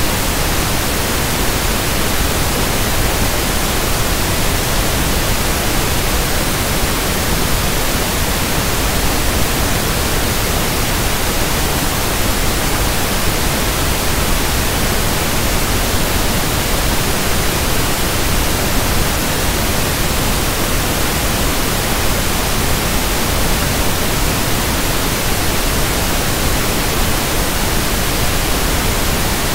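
Pink noise (1/f noise): a steady, unchanging hiss that spreads evenly across the whole range, with no events or changes.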